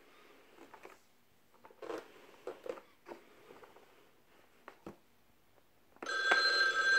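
Faint clicks and knocks of the plastic buttons and parts of a Fisher-Price electronic activity table being handled, then about six seconds in the toy's speaker starts a loud electronic sound of several steady held tones.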